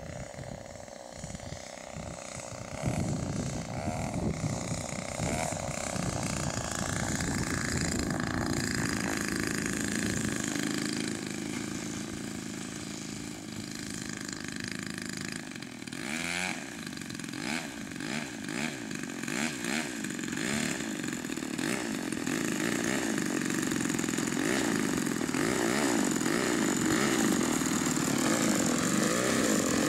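Two-stroke chainsaw engine powering a homemade BigLift aircraft, running with its pitch wavering up and down and growing steadily louder.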